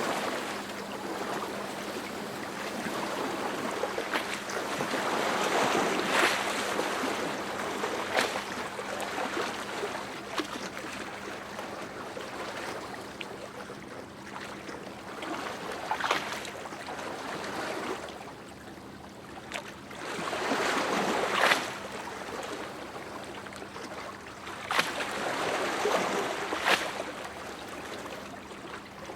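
Sea waves breaking and washing on the shore, surging and falling back every few seconds, with a faint steady hum underneath.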